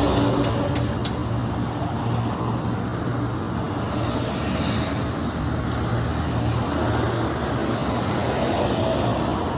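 Steady motor-vehicle engine and road noise with a low, even hum, and a few faint clicks in the first second.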